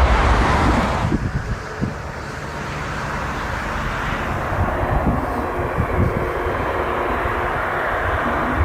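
Jet airliner engine noise: a loud low rumble drops away about a second in, then steady jet noise with a faint high whine slowly grows louder.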